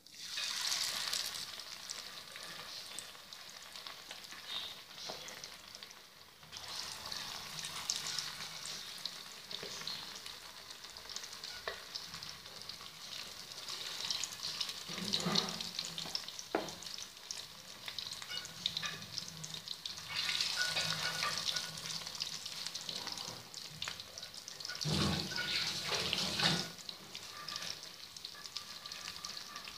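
Masala-coated quail pieces deep-frying in hot oil in a kadai: a steady sizzle that swells louder several times as more pieces are dropped in, with a few light clicks.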